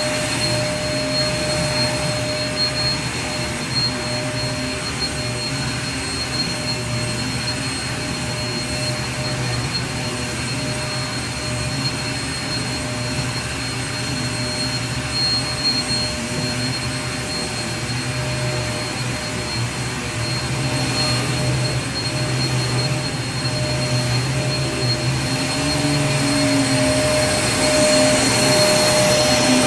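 Vacuum cleaner running steadily: a constant rush of air with a steady motor whine, getting slightly louder near the end.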